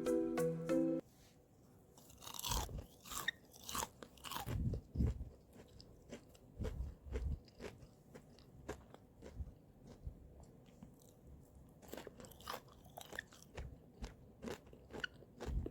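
Irregular crisp crunches of crunchy food, coming in clusters, after a marimba tune stops about a second in.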